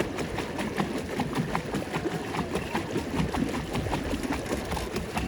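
Pedal boat being pedalled: its paddle wheel churning the water, with a steady low rumble and frequent small clicks and splashes.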